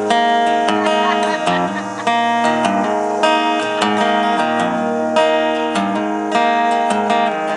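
Acoustic guitar strummed in a steady rhythm: the instrumental break between verses of a singer-songwriter song.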